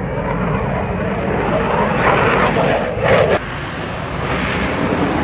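Fighter jet flying past, a loud steady jet-engine roar that swells briefly just after three seconds in and then cuts off abruptly.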